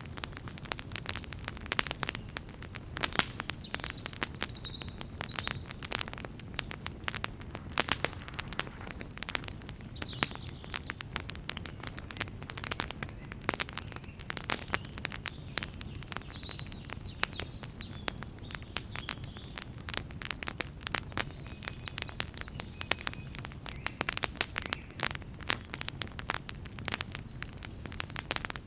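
Wood campfire crackling, with dense irregular pops and snaps over a low steady rumble of the flames.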